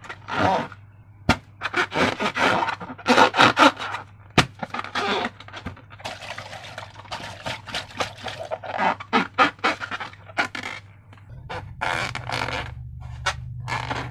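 Slime and rubber balloons being handled: a run of irregular squishing and scraping strokes with a few sharp clicks.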